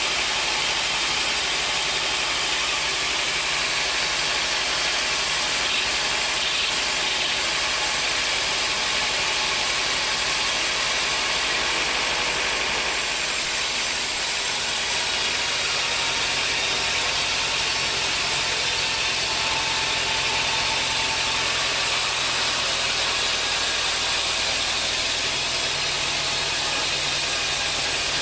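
Sawmill machinery running steadily, a constant mechanical noise with a strong hiss and no rises or falls in level.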